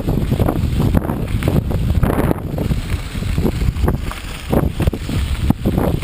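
Wind buffeting the microphone of a camera riding along on a moving mountain bike, an uneven low rumble broken by irregular knocks and rattles from the ride.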